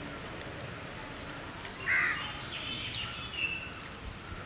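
A bird calling once, loud and short, about two seconds in, followed by fainter high chirps from other birds over a steady outdoor background hiss.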